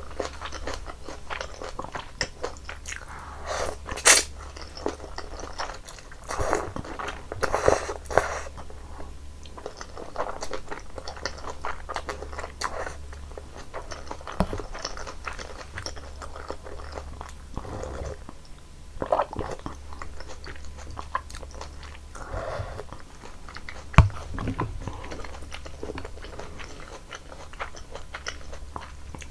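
Close-miked eating of janchi guksu noodle soup: wet chewing and several louder slurps of noodles and broth, about half a second each. A single sharp click about three-quarters of the way through is the loudest sound.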